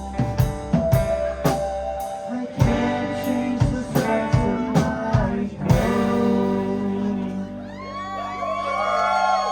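A live rock band of electric guitar, bass, drums and keyboards playing the last bars of a song on a steady drum beat, ending on a final hit about six seconds in that is left ringing. The crowd then starts cheering and whistling near the end.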